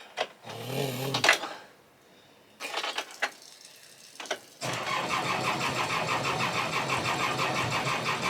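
Sailboat inboard diesel engine being cranked by its starter motor, with a few short sounds and then, from about halfway in, a steady rhythmic churning. The engine does not catch.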